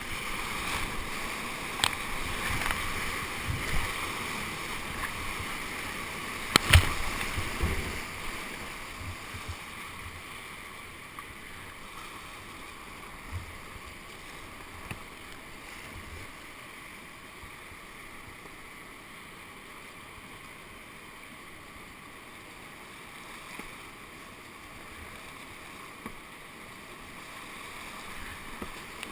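Rushing whitewater heard from a kayak, louder for the first several seconds and then settling to a steadier, quieter wash, with a few sharp knocks, the loudest about seven seconds in.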